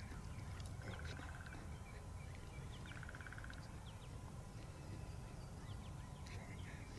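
Faint wild birds calling in the open, with two short rapid trills, one about a second in and one about three seconds in, over a steady low rumble.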